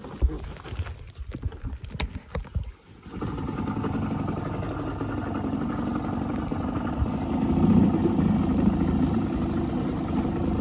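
Knocks and clatter of gear being handled, then about three seconds in a boat's outboard motor starts abruptly and runs steadily.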